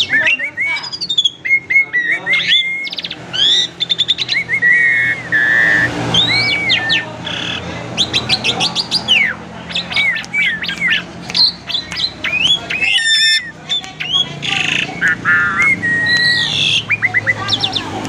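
Asian pied starling (jalak suren) singing a long, varied song without pause: whistled notes, rising and falling glides, rapid rattling trills and harsh squawks, one phrase after another.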